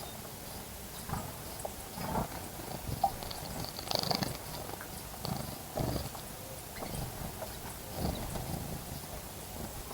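Small birds splashing and fluttering their wings in a shallow bird bath: irregular short bursts of splashing, several seconds apart, with a few faint chirps about four seconds in.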